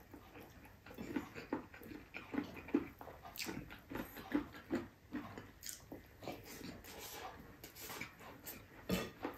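A man eating rice and tender braised pork ribs with his hands: wet chewing and lip-smacking, many short irregular smacks and clicks.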